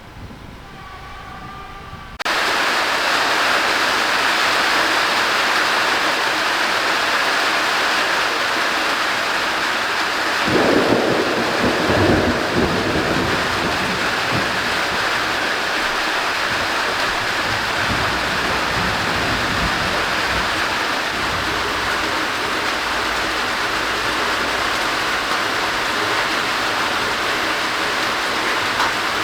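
Heavy rain pouring steadily, starting abruptly about two seconds in. A rumble of thunder swells over it about ten seconds in and lasts two or three seconds.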